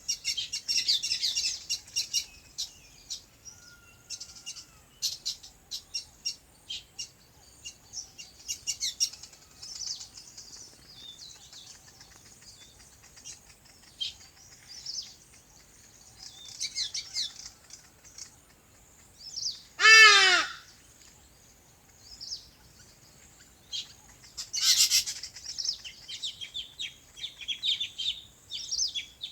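Small birds chirping and trilling in quick, high bursts. About two-thirds of the way through, one louder, lower call rings out briefly.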